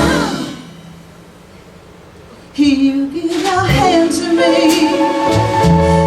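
Song with a female singer and backing music: a held sung note dies away, a lull of about two seconds follows, then the singing and accompaniment start again suddenly.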